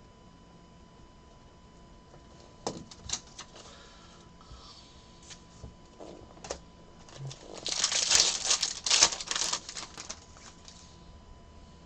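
Trading cards being handled and sorted: a few sharp taps and clicks, then about eight seconds in a quick flurry of cards flicking and sliding against one another.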